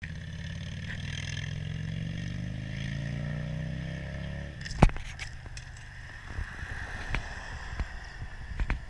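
A motor vehicle engine running with its pitch slowly rising, cutting off about halfway through. Then a loud knock and scattered clicks and knocks.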